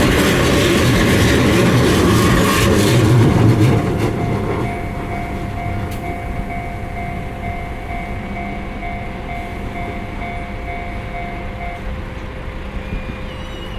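Keihan 600-series two-car electric train passing over a level crossing: loud running and wheel noise that dies down after about four seconds as the train moves off. A level-crossing warning bell then rings in an even pulse and stops a couple of seconds before the end.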